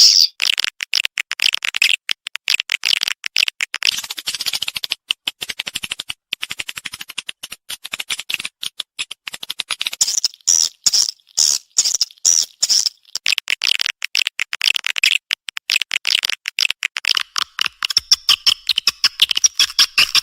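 Edible-nest swiftlet calls: rapid, dense chittering trills of high clicks and chirps that come in long runs with brief breaks. This is a 'respon' call track of the kind played to attract swiftlets.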